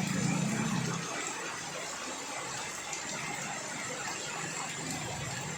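Steady rush of flowing floodwater, with a vehicle engine hum that fades out about a second in.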